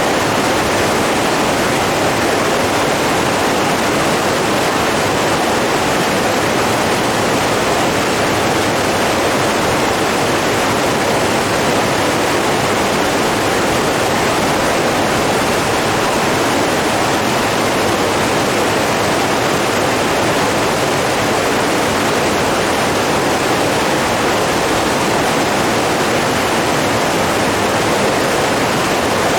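Running water rushing steadily, like a stream or small waterfall, at an even loudness with no breaks.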